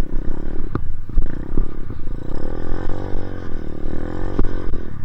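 Dirt bike engine running under throttle while riding through snow, its pitch dipping and then rising again in the middle, with a few sharp knocks along the way.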